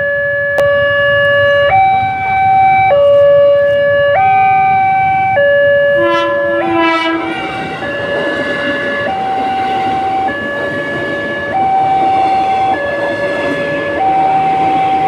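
Railway level-crossing warning alarm sounding a steady two-tone alternation, switching pitch about every second. A brief horn blast comes about six seconds in, and the noise of a passing train builds from about halfway through.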